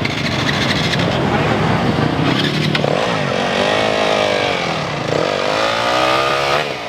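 Motocross bike engine revving, its pitch dipping and climbing again twice in the second half, over the voices of onlookers. The sound drops off sharply near the end.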